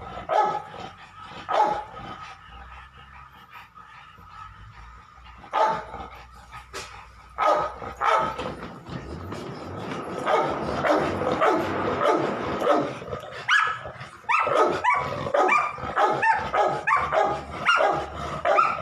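Pit bull dogs barking and whining excitedly. Single barks are spaced out at first, then turn into dense yelping and a quick run of barks in the last few seconds.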